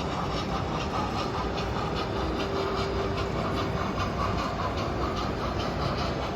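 Model train running along a layout, its wheels clicking over the rail joints at an even beat, over the steady background noise of an exhibition hall.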